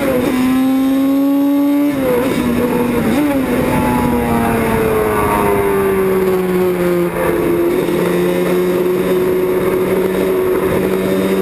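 Classic racing motorcycle engines revving hard on a circuit: a rising note cut by sharp drops at gear changes about two and three seconds in, then a long falling note as a bike goes by, with another engine holding a steady note over the second half.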